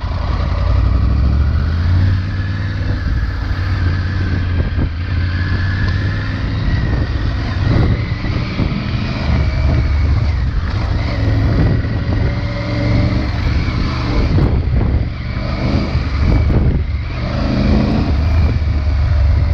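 Triumph Tiger 900 Rally Pro's inline-three engine through its stock exhaust, running under way on an off-road trail, its pitch rising and falling with the throttle. A few short knocks come in around the middle.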